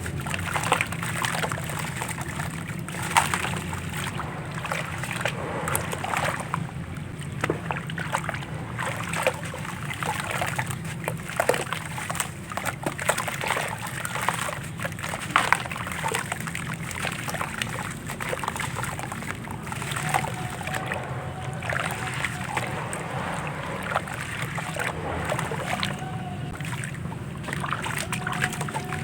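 Gritty, crumbly handmade pieces being dipped in water: sloshing and splashing with many small irregular crackles as the material breaks up and soaks.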